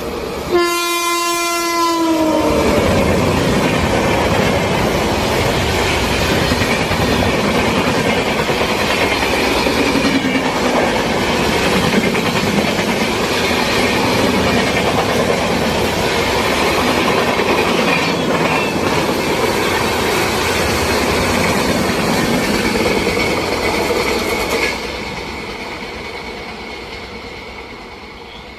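A passing train sounds its horn once, a two-second blast whose pitch sags as it ends. Then comes the loud steady rumble and wheel clatter of the train going by, which drops off sharply a few seconds before the end as the last coach passes and then fades away.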